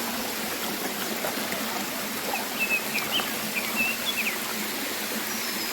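Steady rush of waterfall water. About two seconds in, a bird gives a quick series of short, high chirps lasting about two seconds.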